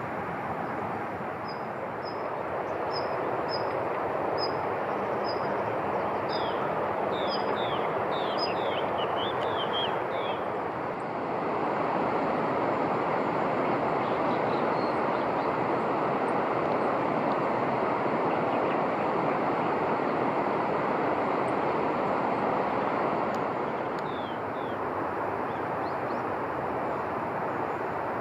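Small birds calling: a run of short high notes, about two a second, then a cluster of quick falling chirps, and two more chirps near the end. Underneath is a steady rushing noise that swells louder for about ten seconds in the middle.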